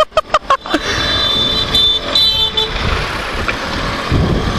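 City road traffic heard from a moving moped: a quick run of short pitched toots in the first second, a high steady beeping tone around two seconds in, then steady traffic noise with a low rumble swelling near the end.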